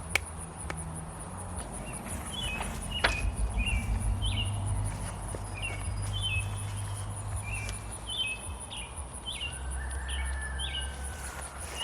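A songbird repeating short chirped notes, about two a second, over a steady high insect trill, with a few sharp clicks of handling.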